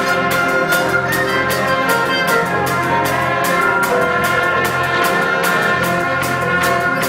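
School concert band playing, with brass and winds holding sustained notes over a steady percussion beat of about three hits a second.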